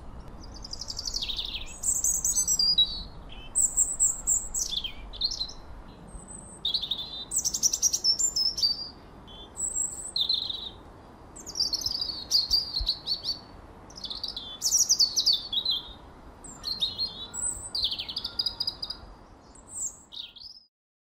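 Birdsong: a continuous run of varied chirps, trills and whistled phrases over a faint steady hiss of outdoor ambience, cutting off suddenly near the end.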